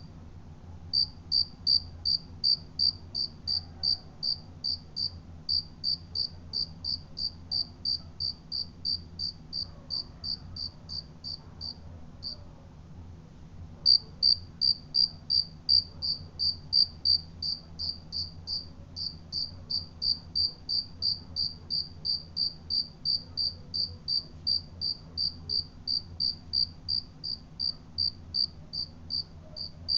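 A cricket chirping in a steady, even rhythm, about three high chirps a second, with a pause of about a second and a half near the middle.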